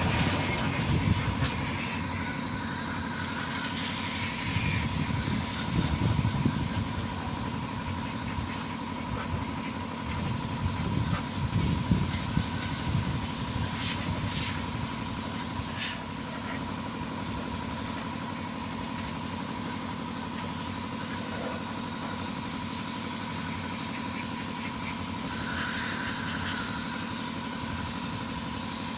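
Steady hissing spray from a car-wash spray gun over a continuous motor hum, with a constant whine and a few brief clicks.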